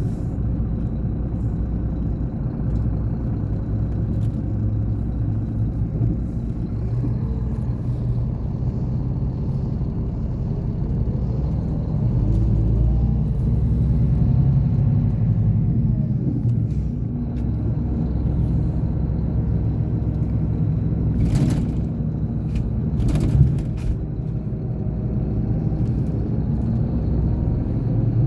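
Scania K420 bus diesel engine running steadily with a low rumble, its revs rising and falling around the middle. Two short hissing sounds come about three-quarters of the way through.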